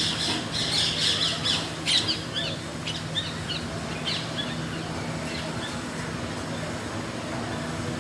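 Birds squawking: harsh calls through the first two seconds give way to a run of short chirps, over a steady low hum.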